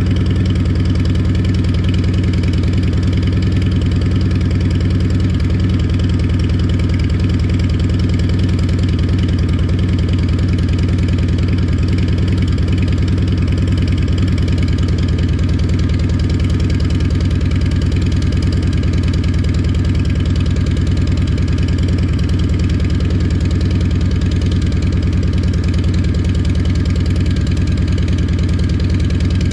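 Harley-Davidson Milwaukee-Eight 114 V-twin idling steadily after a cold start, heard through a Two Brothers Racing 2-into-1 shorty turnout exhaust, with no revs.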